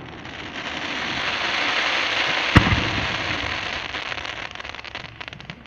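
Fireworks: a dense crackling that swells and then fades over several seconds, with one sharp bang about two and a half seconds in and thinning separate crackles near the end.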